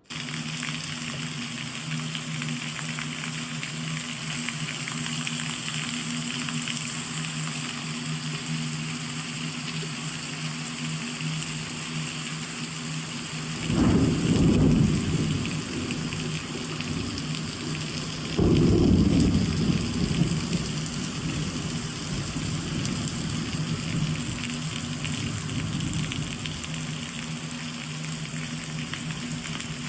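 Rain falling steadily, with two low rolls of thunder, one about 14 seconds in and another a few seconds later.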